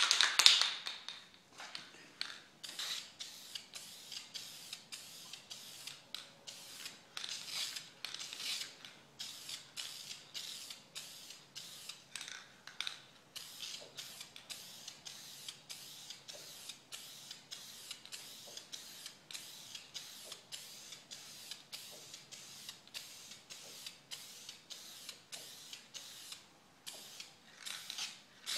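Aerosol spray-paint can hissing in a quick run of short bursts, about two a second, with a longer, louder burst right at the start.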